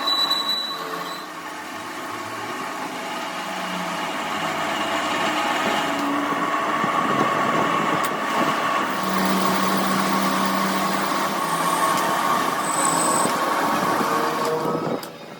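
Metal-working machine running steadily: a continuous mechanical noise with a constant whine, which drops off sharply near the end.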